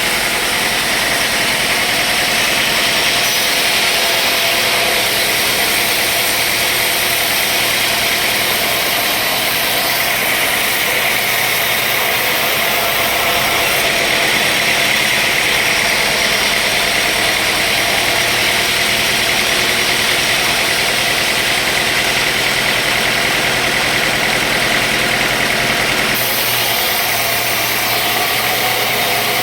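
Sawmill machinery running steadily: a continuous engine-driven drone and noise, with slight changes in its texture a few times.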